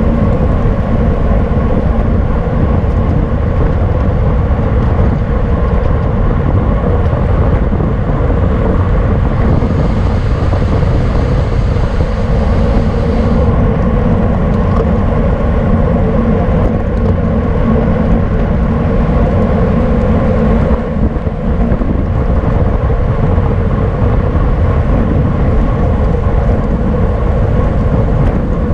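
Wind rushing over the microphone of a camera riding on a racing bicycle at speed, a loud, steady rush with a brief dip about two-thirds of the way through.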